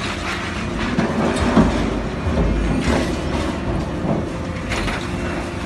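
Hydraulic alligator shear working: a steady machine rumble with several sharp metal knocks at irregular intervals.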